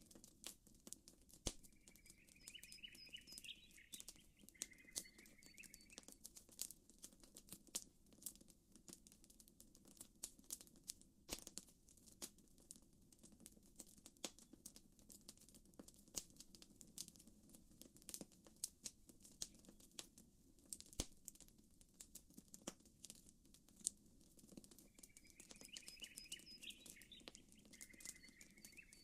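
Campfire crackling quietly, with many small sharp pops and snaps over a low steady rumble. A bird gives a short run of chirps twice, a couple of seconds in and again near the end.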